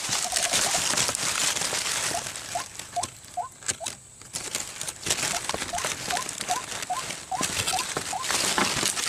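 Rustling and crackling of undergrowth and leaves as a cage trap is handled and set in bushes. Through it, two runs of short rising call notes, about three a second, from a white-breasted waterhen decoy calling.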